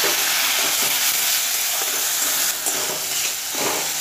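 Onion-tomato masala sizzling in hot oil in a metal karahi, with a splash of water just added. A metal spatula scrapes and stirs it through, with the strokes most distinct in the second half.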